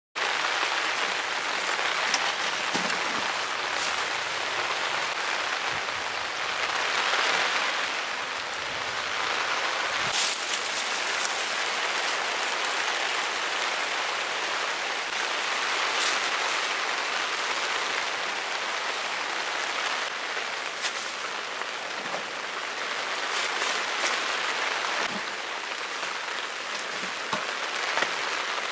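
Heavy rain falling steadily, a constant hiss with scattered sharp drops ticking through it.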